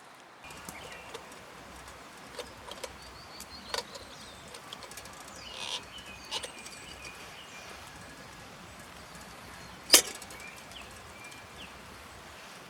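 Wood campfire crackling, with scattered sharp pops and one loud snap about ten seconds in, over a steady outdoor hiss; short bird chirps come and go.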